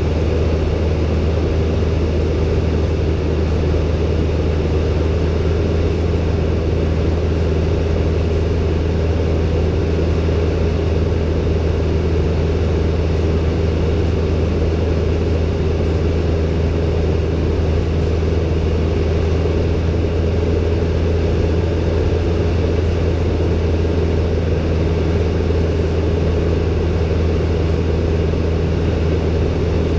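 Steady drone of a Robin DR400-120 light aircraft's four-cylinder Lycoming piston engine and propeller in cruise, heard from inside the cockpit. The pitch and level hold constant throughout.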